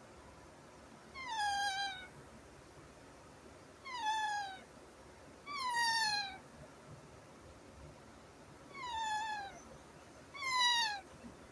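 An animal calling five times with drawn-out, meow-like cries, each falling in pitch, spaced one to three seconds apart.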